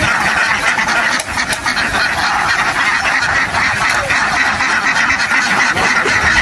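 A flock of ducks quacking without a break, many calls overlapping into a steady din.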